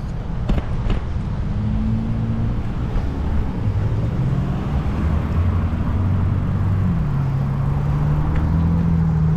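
Road traffic heard from a bicycle: a motor vehicle's engine running close by, its pitch shifting in steps and getting louder toward the end, over a low rumble.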